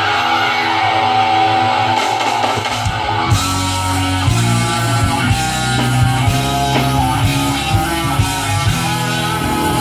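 Live band playing: electric guitar lines at first, then bass and drums come in about three seconds in.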